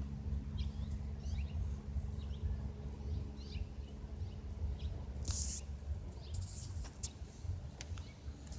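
Outdoor ambience: scattered faint bird chirps over a low steady rumble, with a couple of brief hissing noises partway through.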